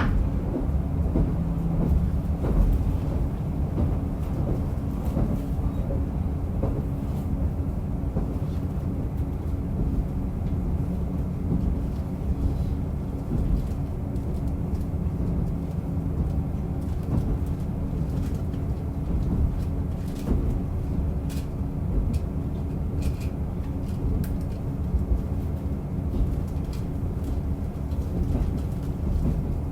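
Diesel railcar running along the line, heard from inside: a steady low engine and wheel rumble with a few sharp clicks now and then.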